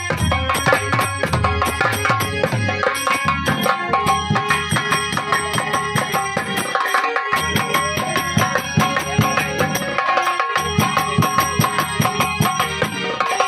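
Live Indian folk band music: a dholak beats a fast, dense rhythm under a held melody line. The drumming stops for a moment twice, about seven and ten seconds in.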